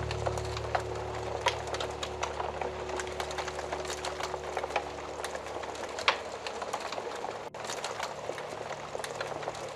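Log fire crackling, with frequent irregular pops and snaps. A low sustained background music chord fades out over the first few seconds.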